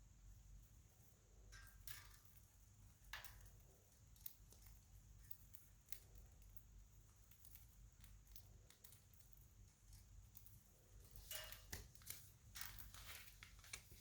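Pet budgerigars making faint short chirps and clicks, scattered at first and bunching into a quick flurry near the end.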